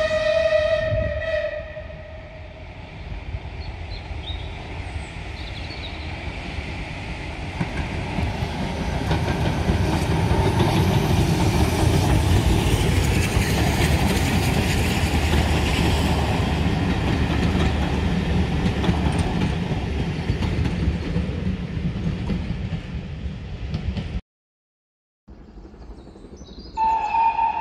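A locomotive sounds a brief single-note warning signal, then a train runs on the rails with a heavy rumble that builds up and stays loud until it cuts off abruptly near the end. A second, higher-pitched signal begins just before the end.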